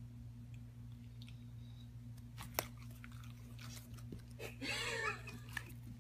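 A pet chewing, with a few sharp crunches, over a steady low hum; a short wavering vocal sound comes about five seconds in.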